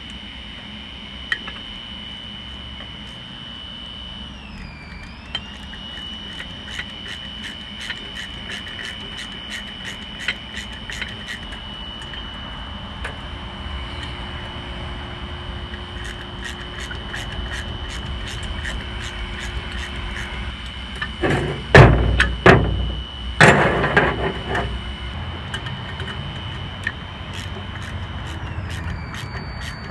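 Run of small metallic ticks as lock nuts holding a new flywheel ring gear are tightened with hand tools, with a few loud clanks about two-thirds of the way through. Behind it a steady high whine from an electric pressure washer, dipping in pitch twice.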